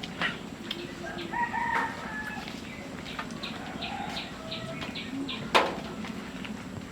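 Chickens clucking in short pitched calls, a little over a second in and again around four seconds, over a steady low hum and scattered small clicks, with one sharp knock about five and a half seconds in.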